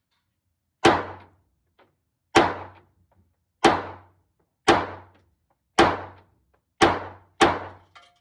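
Seven pistol shots from a Taurus G3 9mm, fired roughly one every second, the last two closer together, each trailing off in a short echo.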